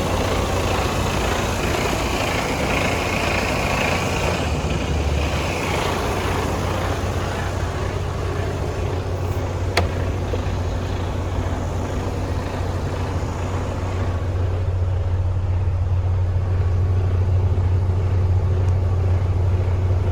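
Mercedes-Benz Arocs 2643 truck's diesel engine running steadily with a deep hum, growing a little louder in the last few seconds, with one sharp click about ten seconds in.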